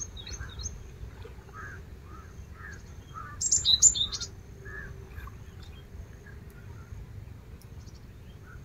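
Small birds chirping: quick, repeated high chirps, with a louder burst of calls about three and a half seconds in.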